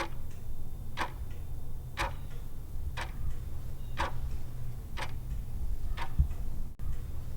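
Clock-style ticking sound effect, one tick a second, counting down the answer time in a quiz, over a low steady hum.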